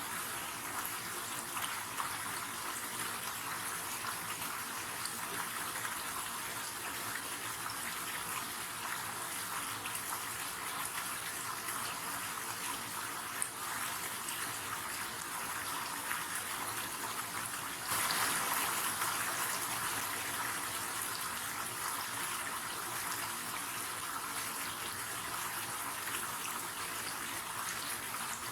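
River water running, a steady rush of flowing water that swells louder for a few seconds about two-thirds of the way through.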